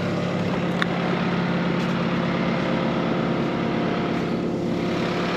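Bobcat T66 compact track loader's diesel engine running steadily at an even speed.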